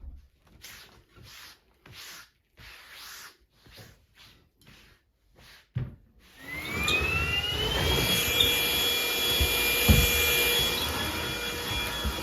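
A series of short swishing strokes, about two a second, then an electric household appliance motor starts up. Its whine rises for a second or two, then runs steady and loud.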